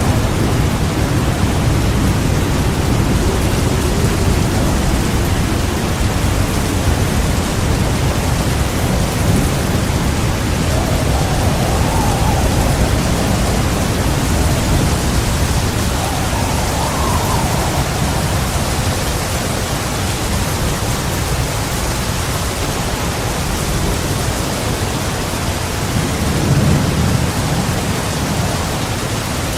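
Heavy rain pouring steadily under continuous low, rolling thunder rumble, with the thunder swelling briefly near the end.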